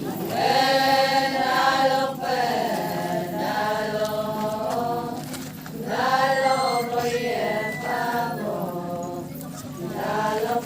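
Voices chanting an Adi ponung song in long melodic phrases with held notes. One phrase starts just after the beginning and another about six seconds in.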